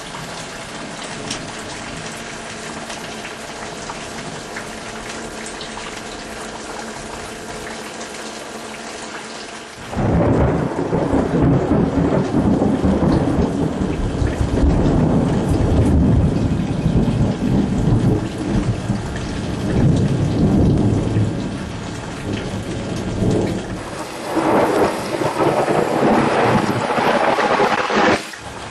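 Steady rain falling, then about ten seconds in a sudden loud thunderclap that goes on as long rolling thunder over the rain, easing briefly and swelling again near the end.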